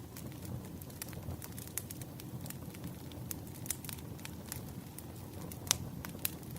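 Burning firewood crackling: a steady low rumble of flames with irregular sharp pops and snaps, the loudest pop near the end.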